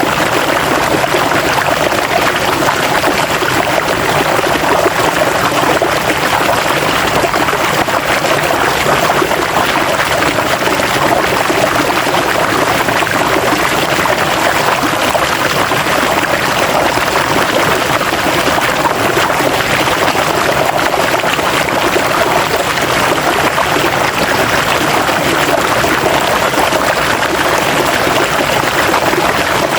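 River water flowing over rocks, a steady rushing and babbling that stays even throughout.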